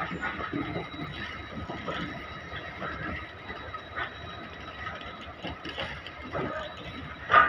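Freight train wagons rolling past, rattling and clanking over the rails with faint steady squealing, and one sharp clank near the end.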